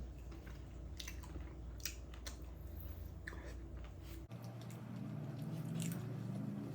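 Faint close-miked chewing and wet mouth sounds of someone eating, with a few soft clicks. A low background hum cuts out abruptly about four seconds in.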